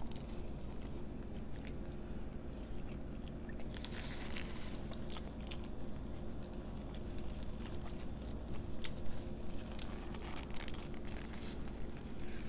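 Close-miked biting and chewing of a sushi burrito with crunchy tempura: scattered crisp crunches that come thicker about four seconds in and again near the end, over a faint steady low hum.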